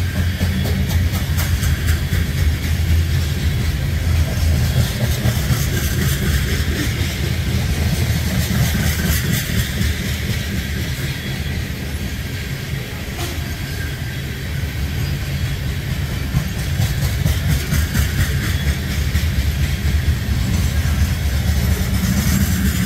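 Freight train of covered hopper cars passing close by: a steady heavy rumble of the rolling cars with a running clatter of wheels and couplers over the rails.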